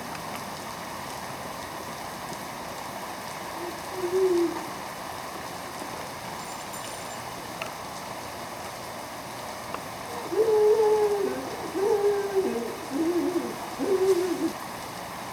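Steady rain pouring, a constant hiss. There is one short low hooting tone about four seconds in, and a series of four short, low hooting tones that dip and bend slightly near the end.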